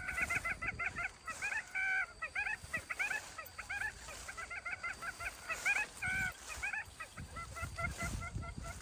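Dogs yipping and whining excitedly in a rapid run of short, high calls, several a second, with a brief pause near the middle.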